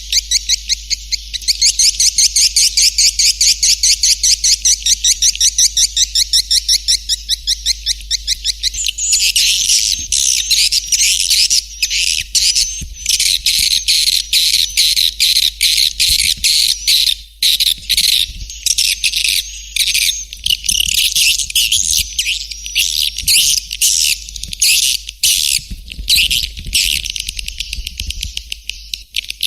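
Swiftlet lure call: rapid, evenly spaced twittering chirps, turning into denser, overlapping chattering from about nine seconds in, over a steady low hum.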